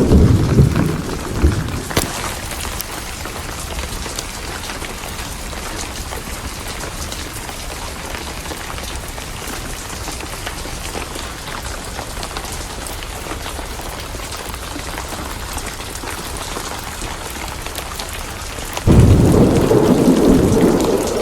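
Steady heavy rain with scattered sharp clicks, and thunder: a low rumble dies away in the first two seconds, and a new roll of thunder breaks in suddenly near the end.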